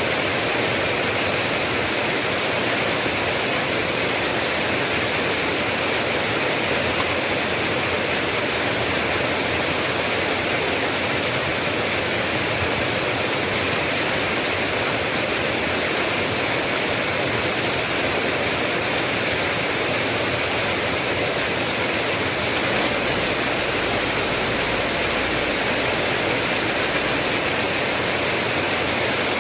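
Steady heavy rain: an even, unbroken hiss of falling drops. About three-quarters of the way through, a low rumble joins underneath.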